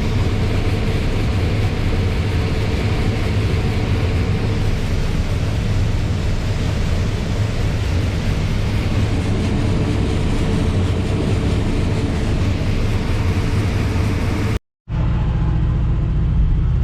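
Combine harvester running steadily while harvesting corn: a constant heavy engine and machinery drone with a deep low hum. It cuts out briefly near the end and resumes with a slightly different tone.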